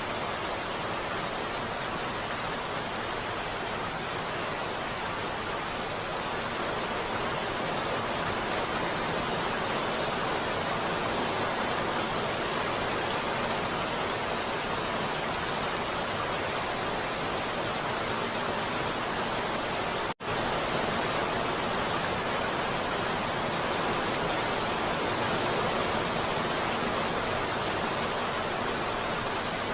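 Steady heavy rain, an even hiss with no distinct drops, cutting out for an instant about twenty seconds in.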